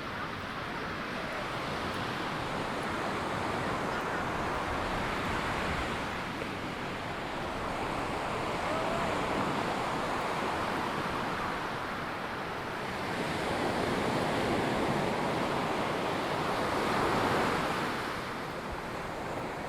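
Ocean surf breaking and washing up a sandy beach, swelling and easing as each wave comes in, with some wind.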